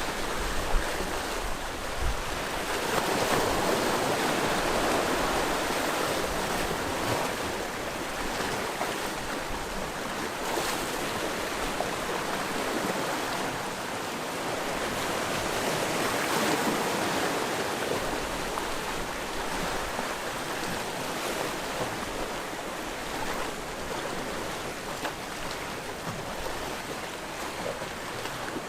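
Sea waves washing onto a rocky shore, a steady wash with two larger swells breaking, one about a few seconds in and another past the middle.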